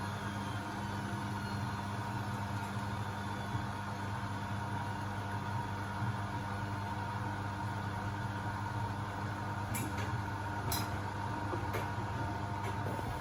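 Beko WMB71642W washing machine in its final spin stage, the motor and drum running with a steady hum. Four short clicks come in the last few seconds.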